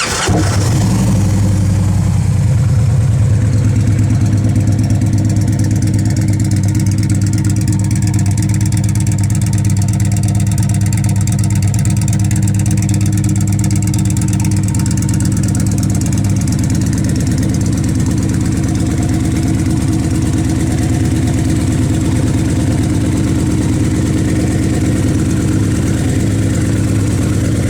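Victory Freedom 106 V-twin engine of a 2011 Victory Vision Tour, just started and idling steadily through D&D exhausts with the baffles removed.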